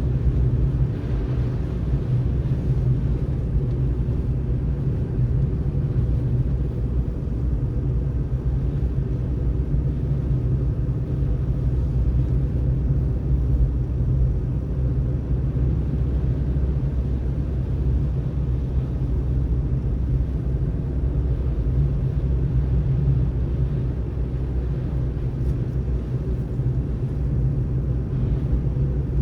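Car driving at a steady pace: a continuous low rumble of tyres and engine, even throughout with no sharp events.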